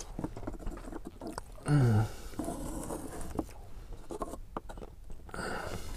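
Mouth sounds of chewing a cream-filled pastry tube: wet smacks and small clicks, with light tapping and rustling as paper coffee cups are handled. A short voiced sound about two seconds in.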